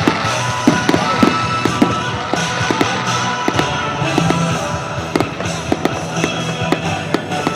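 Fireworks display: many bangs and crackles of bursting shells in quick succession, with music playing alongside.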